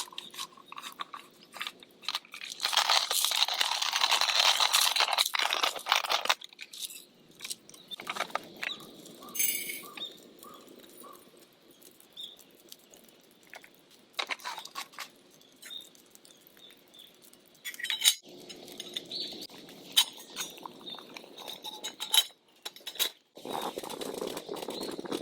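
Coffee beans being ground coarsely in a hand coffee grinder, crunching in spells, with clinks and knocks in between.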